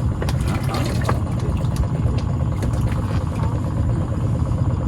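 An engine running steadily, most of its sound low, with a few light clicks over it.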